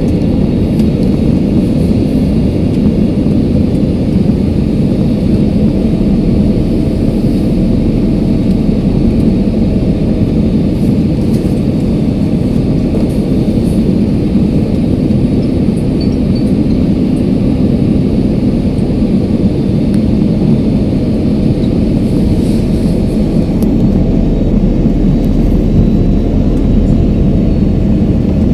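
Steady airliner cabin noise in flight: an even low rumble of jet engines and airflow past the fuselage, with a faint steady tone above it.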